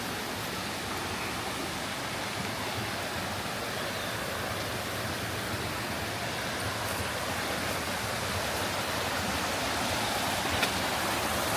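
Steady rush of water from a waterfall, growing slightly louder toward the end.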